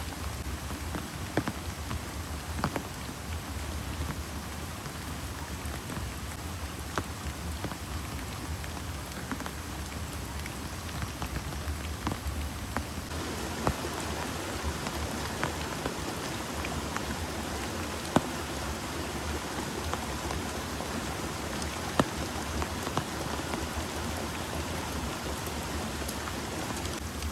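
Heavy rain falling steadily, with individual drops striking close by as sharp taps. The downpour grows denser about halfway through.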